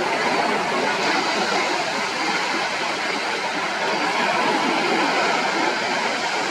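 Surf washing onto a sandy beach: a steady rushing noise with no distinct break or call standing out.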